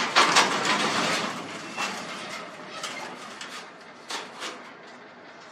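Garage door hardware rattling and clanking as the door and its rollers are worked by hand in the metal track, loudest in the first second and a half and then trailing off into a few separate clicks.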